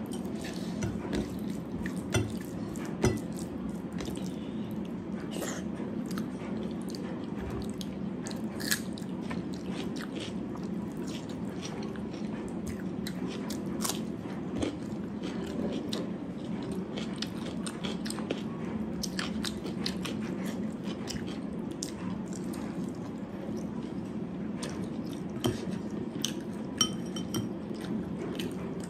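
A person chewing and eating a meal close to the microphone, with crunching bites and scattered small clicks of dishes, over a steady low hum.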